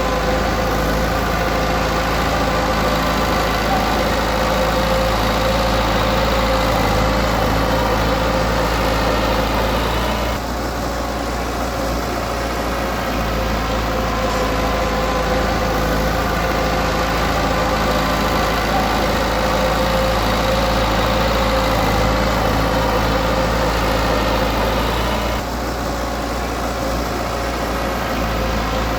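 A heavy-equipment diesel engine running steadily. It eases off briefly about ten seconds in and again near the end.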